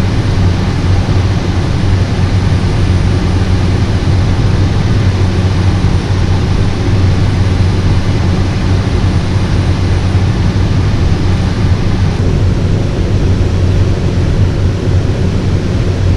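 Cessna 208 Caravan's PT6A turboprop engine and propeller heard from the cockpit: a loud, steady drone with a strong low hum, unchanging throughout.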